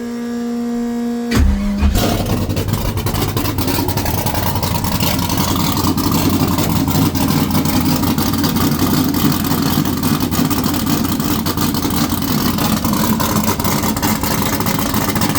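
Carbureted engine running on full E85, started ice cold with the carburetor untouched: a steady electrical whine, then a brief crank just over a second in, and the engine catches at once and runs at a steady fast idle.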